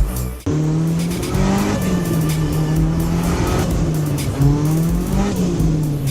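Turbocharged Mitsubishi Lancer Evolution VIII's engine running under load after a sudden cut-in about half a second in, its pitch rising and falling several times as it revs.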